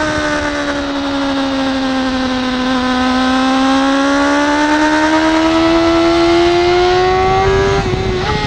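BMW S1000RR's inline-four engine running hard on track, its note sagging slightly and then climbing steadily for several seconds as the bike accelerates, with a brief dip and stutter near the end.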